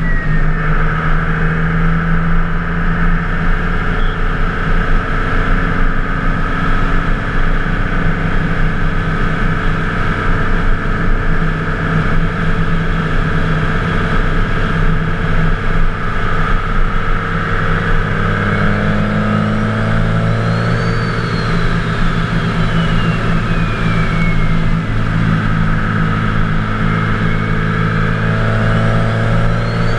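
Twin-turbocharged 24-valve Cummins diesel pickup running under way, with a steady engine drone. About two-thirds through, a high turbo whistle rises and falls in pitch, and it climbs again near the end.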